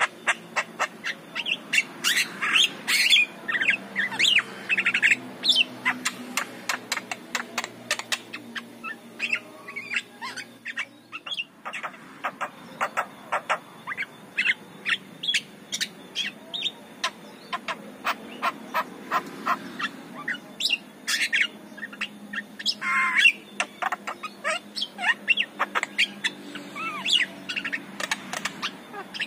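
Javan myna (jalak kebo) singing continuously: a fast chatter of sharp clicks mixed with short whistles and harsh squawks, with an especially loud call near the end.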